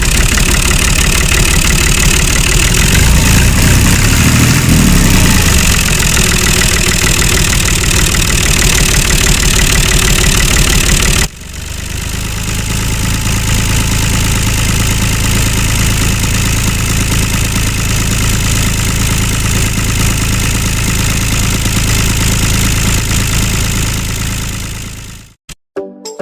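Engine of a homemade mini tractor modelled on the Massey Ferguson 385, running steadily with an even low pulsing. The sound changes abruptly about eleven seconds in, runs on steadily and cuts off near the end.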